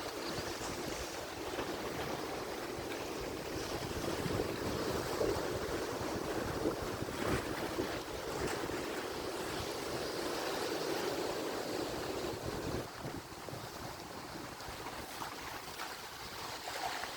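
Atlantic Ocean surf: a steady rush of waves washing in, swelling through the middle and easing off near the end.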